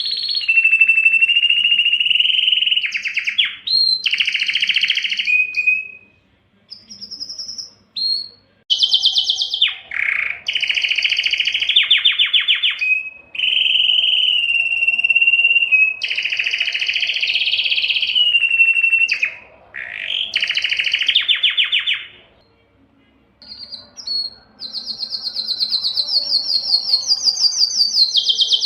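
Canary singing: long phrases of rapid trills and rolls, some held on one pitch and others stepping higher, with short breaks about six seconds in and again about twenty-two seconds in.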